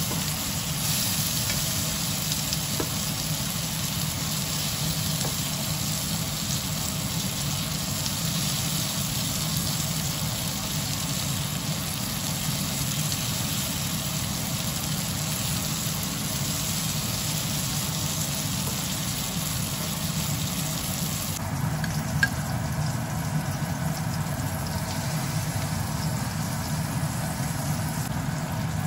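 Pork belly frying in oil in a non-stick pan, a steady sizzle over a steady low hum. About two-thirds of the way through the sizzle stops, leaving the hum and a single click.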